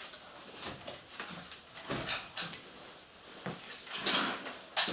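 Handling noises: a run of light knocks, clunks and rustles, the loudest about four seconds in and again near the end.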